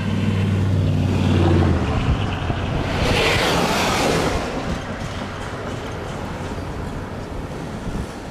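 Low engine rumble of a train leaving the crossing, fading out over the first two seconds, followed by a swelling whoosh about three to four seconds in, then steady wind noise on the microphone.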